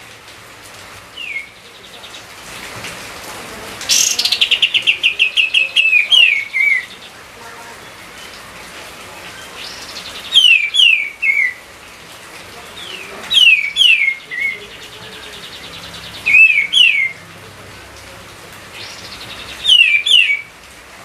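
A songbird singing, repeating short phrases of two or three quick downward-sliding whistled notes about every three seconds, with a fast trill of rapidly repeated notes about four seconds in.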